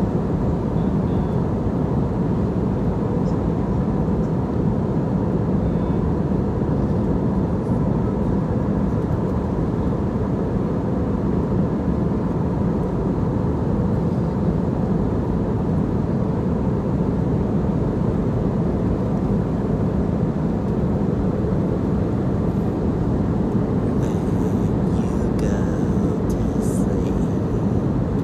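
Steady airliner cabin noise in flight: an even, low rush of engine and airflow noise with a faint steady hum, unchanging throughout.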